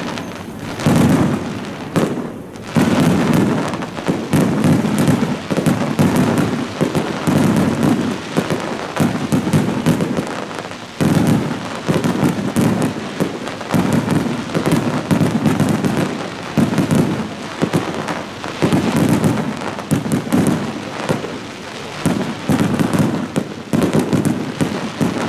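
Aerial firework shells bursting in a rapid, near-continuous barrage: booms every second or so, overlapping, with sharper cracks between them, as in a grand-finale volley.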